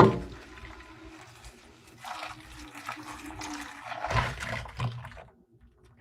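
Dishes being washed by hand: a sharp clatter at the start, then running water and scraping, louder from about two to five seconds in.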